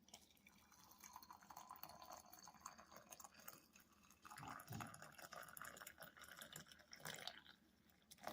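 Water being poured into an electric kettle: a faint splashing trickle with many small drips and clicks, and a low knock about halfway through.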